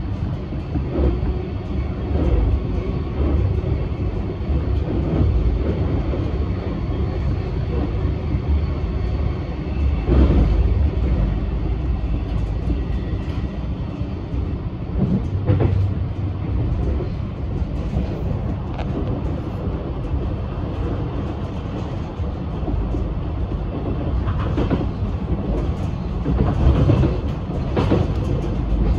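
Inside a Metro X'Trapolis electric train's carriage at speed: a steady low rumble of wheels on rails, with a few louder knocks now and then.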